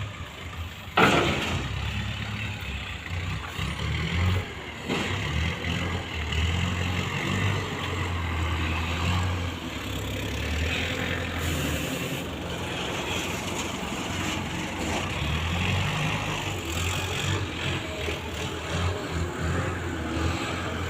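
Heavy diesel machinery engine running steadily, its load rising and falling, with one sharp knock about a second in.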